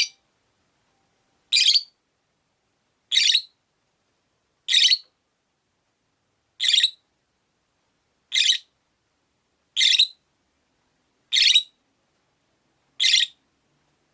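Rosy-faced lovebird (Agapornis roseicollis) giving short, harsh, shrill calls, about nine in a row at an even pace of roughly one every second and a half.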